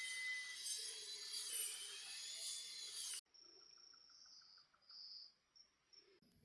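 Insects chirping in a dense, high-pitched chorus. About three seconds in, the sound cuts abruptly to a fainter, steady high trill that swells and fades, with a short run of quick ticks just after the cut.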